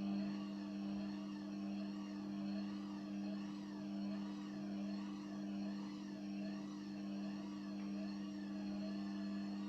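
Gorenje WA50060 washing machine giving a steady low hum that swells and fades about once a second. This is the strange pulsating noise the owner hears once the drain pump has finished, and whose cause he does not know.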